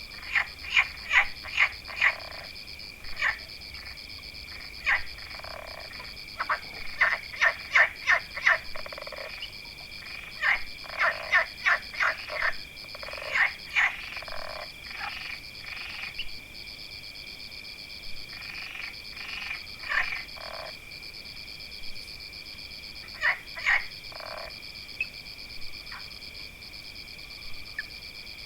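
Frogs croaking in runs of short calls, about two a second, with pauses between the runs, over a steady high trilling chorus of insects or frogs.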